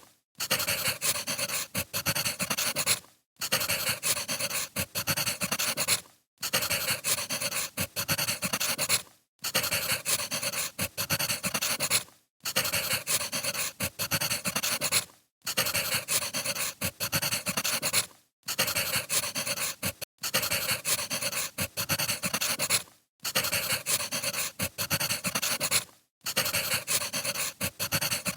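Crackling wood fire, dense pops and snaps across the whole range. It comes as a short recording looped over and over, with a brief dropout about every three seconds.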